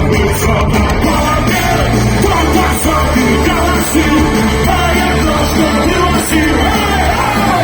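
Live punk rock band playing with distorted guitars, bass and drums, a voice singing and shouting over it, recorded from the audience.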